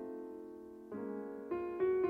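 Gentle background piano music: soft chords struck every half second to a second, each fading before the next.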